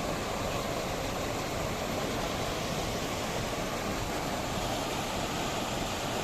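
Steady rushing of a rain-swollen river in flood.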